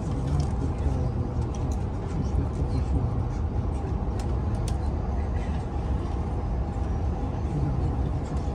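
Steady low rumble of an Oscar H-set electric double-deck train running along the track, heard from inside the carriage, with light clicks and rattles over it.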